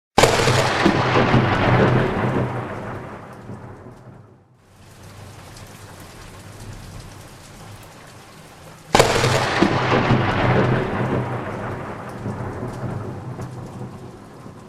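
Thunderstorm: two sudden thunderclaps, one right at the start and one about nine seconds in, each rumbling and fading over several seconds, over steady falling rain.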